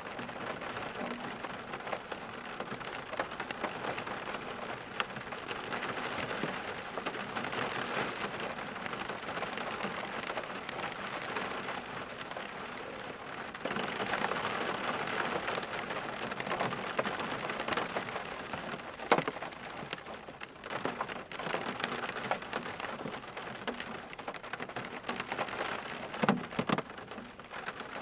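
Steady rain falling on a surface, with individual drops striking audibly. A few sharper drop hits stand out, the loudest about two-thirds of the way in.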